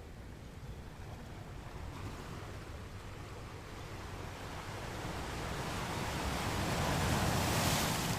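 Ocean waves: surf noise that builds slowly over several seconds as a wave comes in, peaks near the end and starts to ebb.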